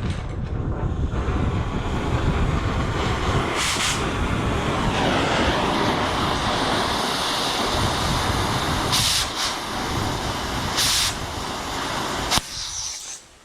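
Cutting torch flame hissing steadily while cutting steel, with a few brief louder bursts of hiss; the hiss stops shortly before the end.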